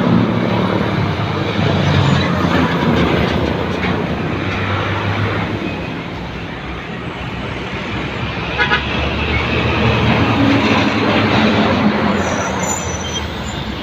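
Heavy truck driving on the road: a steady diesel engine note under tyre and wind noise, with two brief sharp sounds about eight and a half seconds in.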